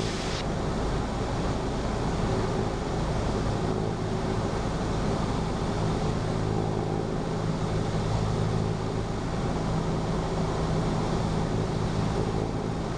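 Cessna 172's four-cylinder piston engine running steadily with airflow noise, heard inside the cabin; its steady drone firms up a little about halfway through.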